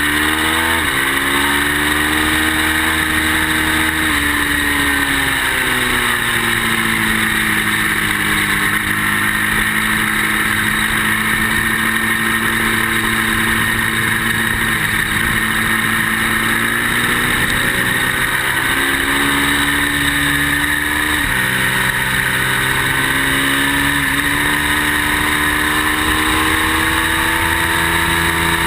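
Ducati V-twin sport motorcycle engine running at speed on track, its revs rising and falling through corners, with a sudden drop about three-quarters of the way in as a gear changes, then climbing again. Steady rush of wind noise underneath.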